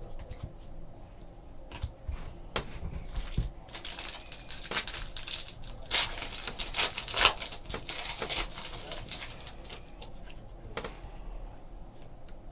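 Trading card packs being opened and handled: a dense run of crinkling, rustling wrapper and card noise with many small sharp clicks. It starts a few seconds in, is loudest in the middle, and fades out near the end.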